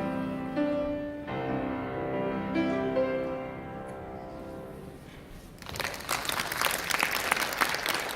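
Piano playing the closing notes of a piece, the last chord fading away, then audience applause breaking out about five and a half seconds in.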